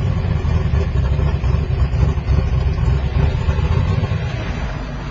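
Turbocharged Mustang drag car's engine running at low speed, heard from inside the cabin as a loud steady low drone that eases off a little over the last two seconds.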